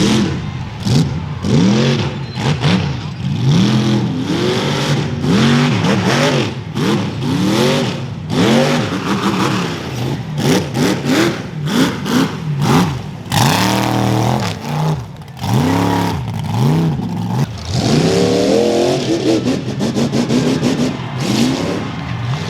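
Monster truck engine revved hard over and over, the pitch rising and falling about once a second, with a few short gaps and some longer held revs near the end.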